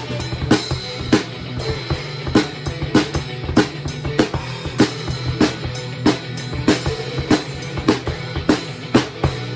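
Drum kit played to a fast heavy-metal beat, with bass drum and snare and a loud accented hit about every 0.6 s, over the recorded song.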